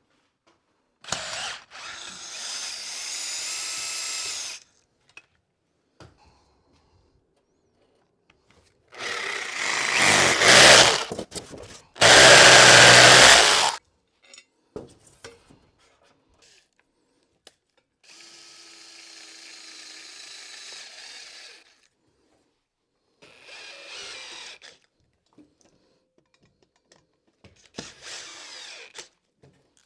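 Power drill run in six short bursts of one to four seconds, driving Tapcon concrete screws. The loudest bursts come between about nine and fourteen seconds in; the first burst has a slightly rising whine.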